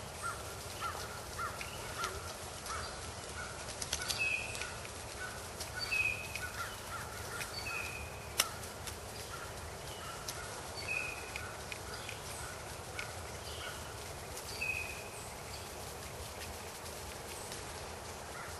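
Birds calling in the woods: a run of short repeated notes, about three a second, that fades out about five seconds in, with scattered higher calls through the rest. A single sharp click about eight seconds in.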